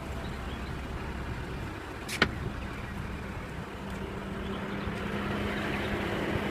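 Steady low hum of a 2015 BMW 535i's 3.0-litre turbocharged inline-six idling, with a single sharp click about two seconds in as the hood is released.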